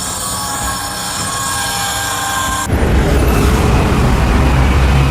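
A heavy engine running. About two and a half seconds in, the sound switches abruptly to a louder, deeper rumble.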